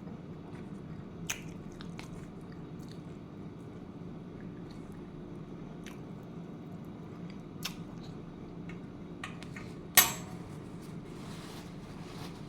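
A person chewing food, with a few faint clicks and one sharp clack about ten seconds in, over a steady low background hum.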